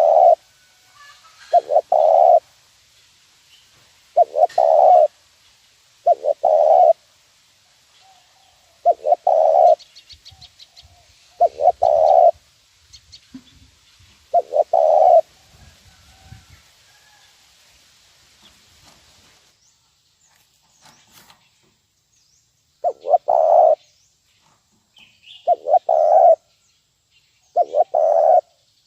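Spotted dove cooing, a lure call. Short coos repeat every two to three seconds, with a pause of several seconds partway through.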